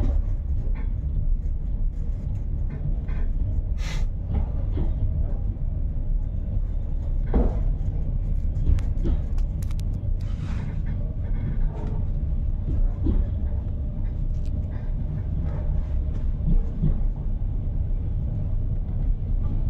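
Passenger train running along the track, heard from inside the carriage: a steady low rumble of the wheels on the rails, with a few short clicks and knocks scattered through it.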